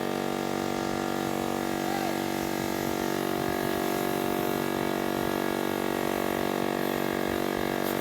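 Electric pressure washer (jet wash) running steadily, its motor and pump giving a constant hum over the hiss of the water jet.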